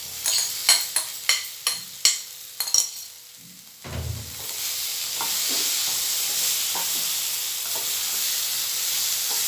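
A spoon clicking against a bowl as boiled potato pieces are scraped out, then a soft thump as they drop into hot oil and fried masala in a wok. Steady sizzling follows, with a wooden spatula stirring and scraping now and then.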